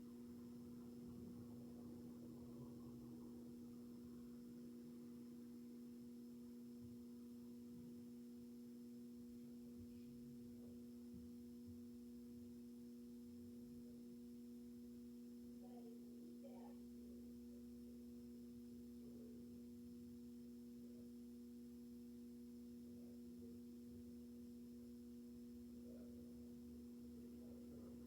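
Near silence with a faint, steady low hum throughout.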